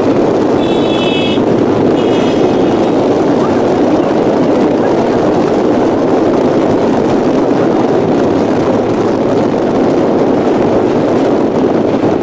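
A train running steadily, a dense continuous rumble mixed with heavy wind noise, with two short high-pitched tones about one and two seconds in.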